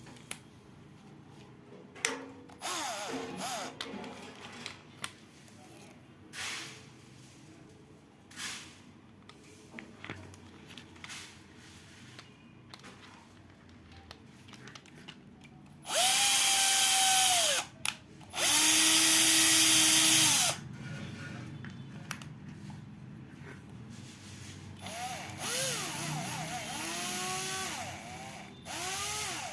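Electric drill motor run in short bursts: two louder runs of about two seconds each in the middle, each whining up to speed and winding down when the trigger is released, with a few shorter, quieter spins near the start and towards the end, and handling clicks between them.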